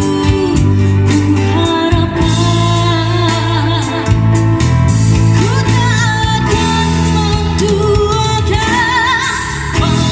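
A female singer with a live band: her voice carries a wavering melody over bass guitar and drums, and the vocal line rises higher near the end.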